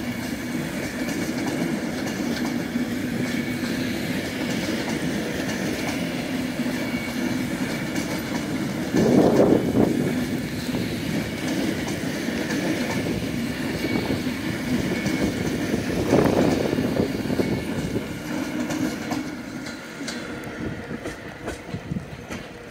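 Class 390 Pendolino electric train pulling slowly out past, a steady rolling rumble of wheels on rail. It swells louder twice, about nine and sixteen seconds in, and fades toward the end as the train draws away.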